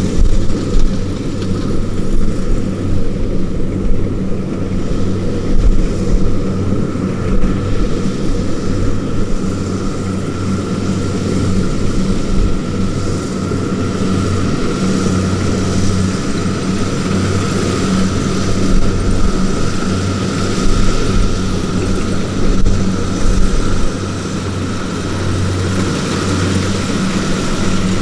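Diesel engine of a rice-harvesting farm machine running steadily under load, a deep hum with a thin steady whine above it.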